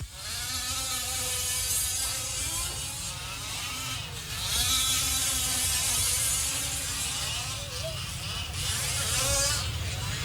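Several gas-powered 1/5-scale off-road RC trucks' small two-stroke engines buzzing around the track, their pitches rising and falling as they accelerate and back off. It gets louder three times, as trucks pass close by.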